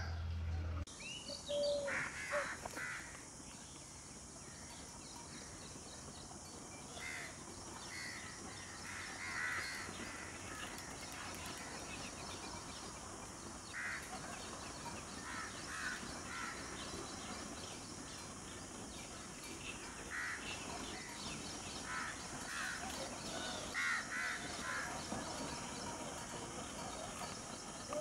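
Birds calling outdoors: harsh, crow-like caws in short groups of two or three, repeating every few seconds over a steady background hiss.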